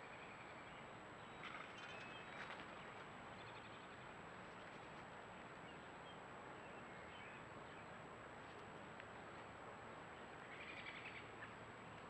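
Faint outdoor ambience with a thin steady high tone running under it. Short bird calls come twice: a couple of quick calls around a second and a half to two and a half seconds in, and another cluster near the end.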